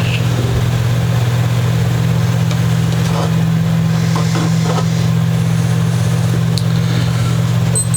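A steady electric motor hum at a constant pitch, with a few faint light ticks over it.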